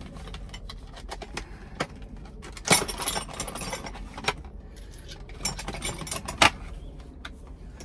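Metal pieces of a steering-wheel lock plate removal tool clinking and rattling as they are handled, with scattered sharp clicks and knocks, busiest about three seconds in and again near six seconds.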